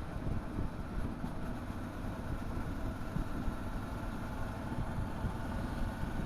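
Motorcycle engine running steadily on the move, with low wind rumble on the microphone.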